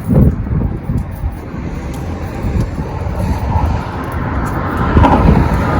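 Highway traffic running past on the bridge, with wind buffeting the microphone; the traffic grows louder about five seconds in as a vehicle goes by.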